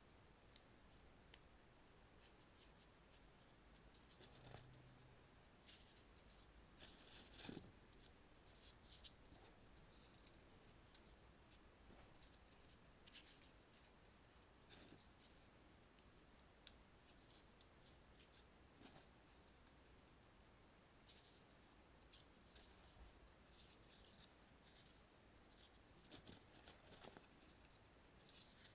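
Faint rustling and crinkling of paper being folded and creased by hand into 3D origami pieces, in short, irregular scrapes with a few louder crinkles.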